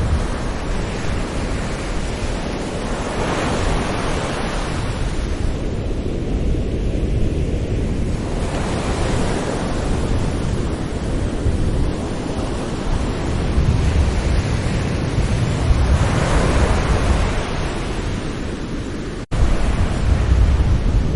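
Sea waves breaking and washing up a shore: three swells of surf a few seconds apart over a steady low rumble. The sound cuts out for an instant near the end.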